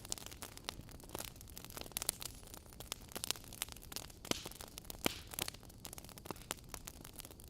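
Wood fire burning in a fireplace, crackling with many irregular sharp pops over a soft steady hiss.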